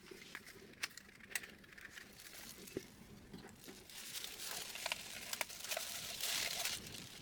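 Hands handling printer parts: scattered light clicks and taps of small plastic and metal pieces, with a rustling, crinkling noise that grows louder near the end.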